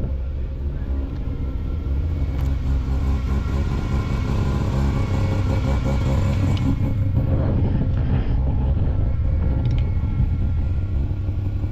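A car engine running steadily close by with a deep, low rumble.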